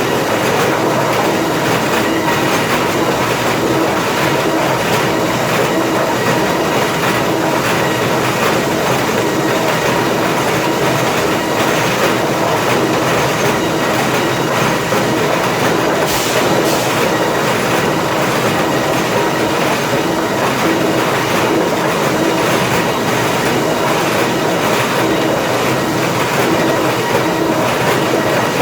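Lumber planer infeed machinery running: a dense, steady clatter over a constant machine hum with a steady tone in it, and a short hiss just past the middle.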